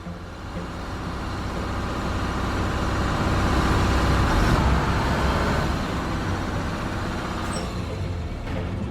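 A heavy vehicle rumbling past. It grows louder to a peak about halfway through, then fades.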